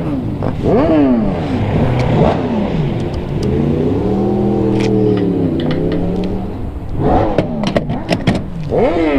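Suzuki GSX-R motorcycle engine revving and easing off while riding, its pitch swinging up and down several times, with a steadier held stretch about four to six seconds in. Wind rushes over the microphone throughout.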